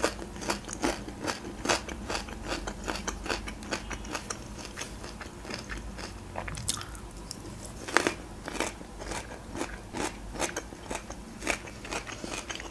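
A person chewing raw radish: crisp crunches, several a second for the first few seconds, then sparser, with a fresh loud bite about eight seconds in.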